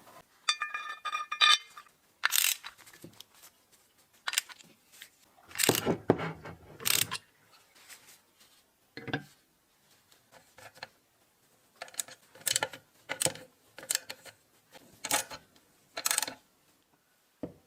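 Metal parts clinking and knocking against one another, a dozen or so separate irregular strikes. About half a second in there is a short, ringing metallic rattle.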